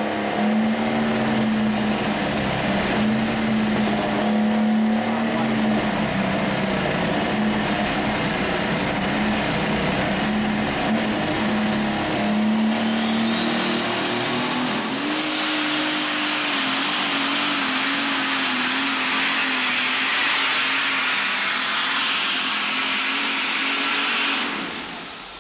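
Alcohol-burning super stock pulling tractor running at full throttle down the track, its engine note holding steady, then stepping up in pitch about two-thirds of the way through while a high turbo whistle climbs and holds. Near the end the engine sound falls away as the run ends.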